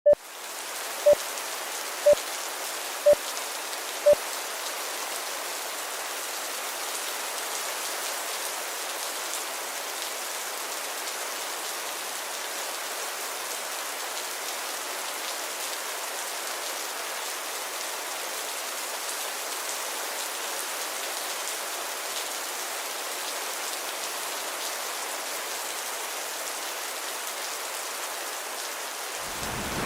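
Heavy rain falling steadily as an even hiss with no low end. Five short, loud beeps, about one a second, open it, and a low thunder rumble begins in the last second.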